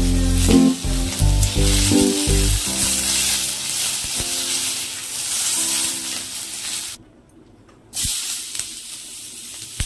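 Food sizzling as it fries in hot oil in a pan, a steady hiss. About seven seconds in the sound drops out for about a second, then the sizzling returns quieter.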